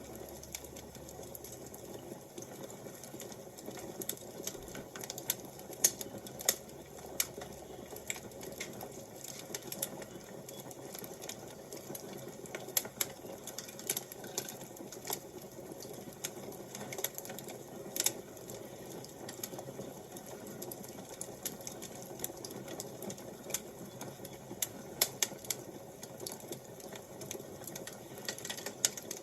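Wood fire crackling: irregular sharp pops and snaps scattered unevenly over a steady soft rushing hiss.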